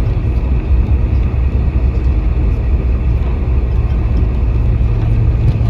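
Cabin noise inside a Boeing 747-400 rolling on the runway just after landing: a loud, steady rumble of engines and wheels, with a low hum that strengthens near the end.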